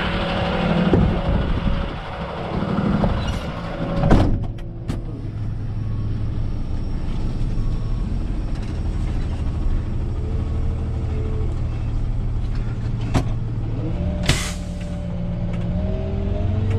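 Rollback tow truck's engine running steadily, with a sharp knock about four seconds in and a short hiss of air about fourteen seconds in, then the engine pitch rising near the end.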